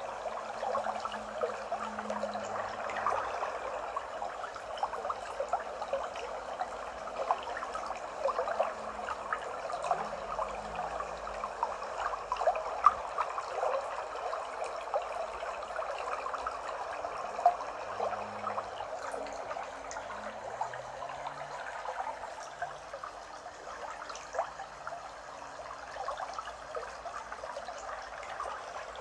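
A small forest stream trickling and babbling steadily, with a constant patter of tiny splashes.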